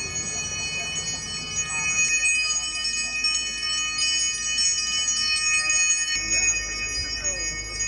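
Balinese priest's hand bell (genta) rung without pause, a steady shimmer of many high ringing tones, as used during a Hindu ceremony's mantra recitation.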